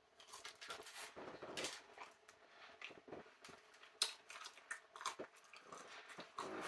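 A person eating: faint, irregular chewing and mouth sounds with small handling noises, and a sharp click about four seconds in.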